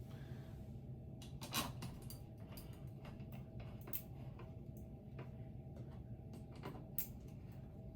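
Scattered light clicks and knocks from fan parts being handled, the loudest about one and a half seconds in, over a faint steady hum.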